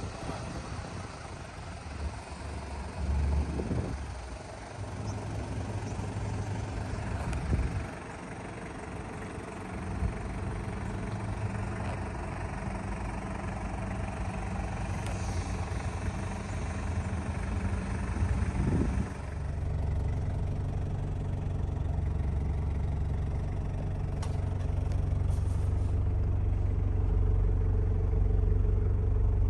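Toyota Hiace's 1KZ-TE four-cylinder turbo diesel engine running. It settles into a steadier, more even low hum about two-thirds of the way through.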